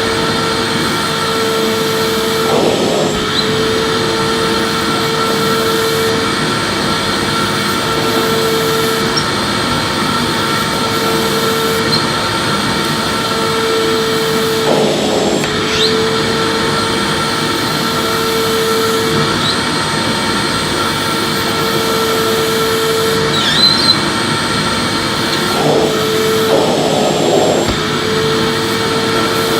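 Electric vacuum cleaner running steadily with a constant whine, being pushed in sweeping strokes: the whine breaks up and shifts every second or two, with a brief scuffing surge every several seconds.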